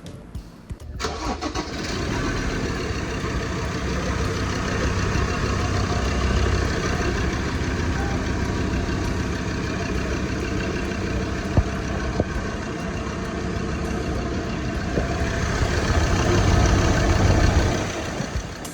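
Ford Ranger engine starting and then running steadily, now fitted with a new piston and sleeves to cure piston slap; it runs louder for a couple of seconds near the end.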